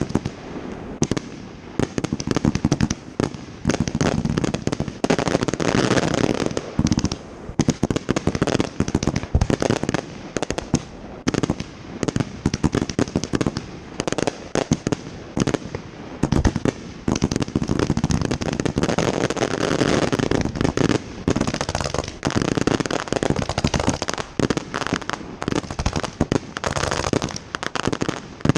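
Fireworks display going off in a dense, continuous run of bursts, reports and crackle, many per second.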